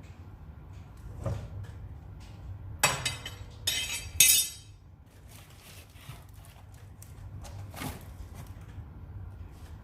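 Firewood burning in a fireplace: scattered crackles over a low steady rumble, with a burst of loud, sharp pops and snaps about three seconds in that lasts over a second.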